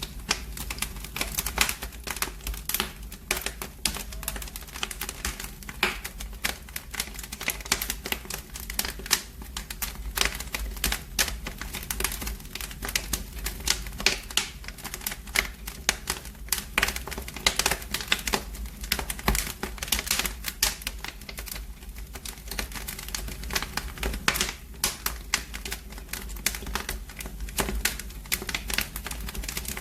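Wood fire burning in a fireplace, crackling and popping with dense, irregular snaps.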